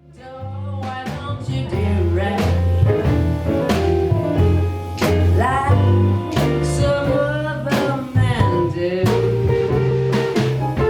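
A live blues-swing band playing: a singer over guitar, bass and drum kit with cymbal strikes, fading in at the start.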